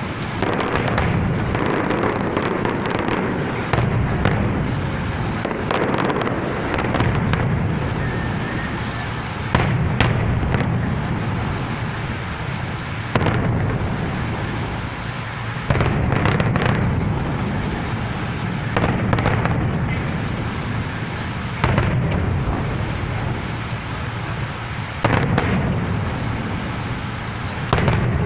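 Fireworks going off: a sharp bang every few seconds, about ten in all, over continuous crackling and rumbling.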